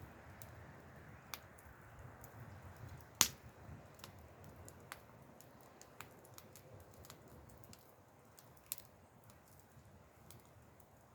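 Wood fire crackling: irregular sharp pops and snaps, the loudest about three seconds in, over a low steady rumble.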